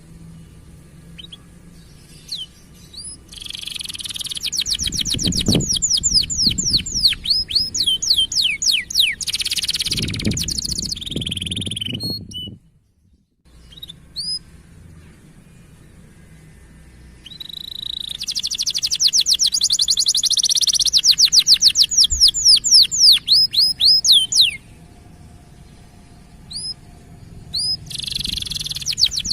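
Canary song: long phrases of fast, rapidly repeated falling chirps, three of them, separated by pauses with a few single short notes. This is the 'cuit cuit' chirping used to bring hen canaries into breeding condition.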